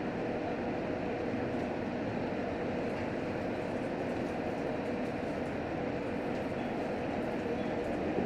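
Cabin noise of a JR Hokkaido H100 series diesel-electric railcar running along the line: a steady rumble of wheels and running gear with a faint, even hum under it.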